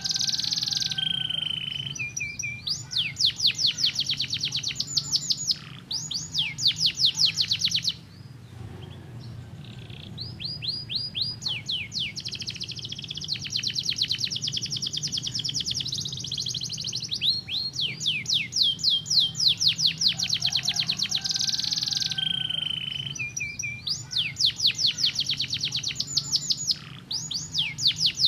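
Domestic canary singing a long song of rapid rolls, each made of fast, evenly repeated high notes, with a short pause about eight seconds in, over a steady low hum.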